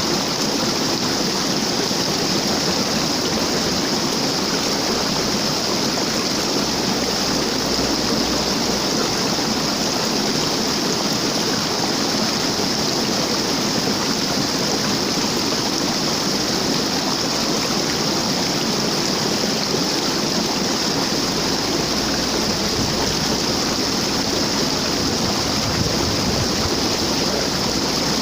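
Waterfall: water falling and rushing as a steady, even roar with no breaks.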